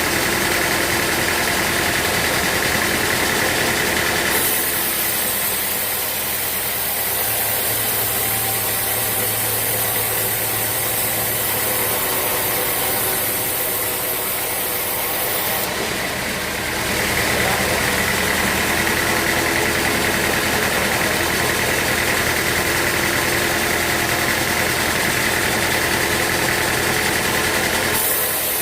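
Sawmill machinery running steadily, an engine-like hum whose tone shifts about four seconds in and again around seventeen seconds.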